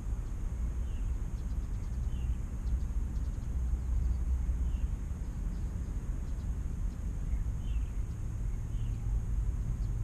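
Outdoor ambience: a steady low rumble throughout, with about five faint, short bird chirps scattered through it.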